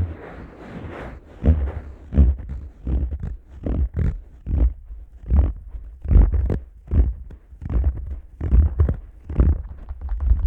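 Fingers patting and pressing on the ear of a Neumann KU100 dummy-head microphone, heard binaurally as irregular muffled thumps about one or two a second, heavy in the bass.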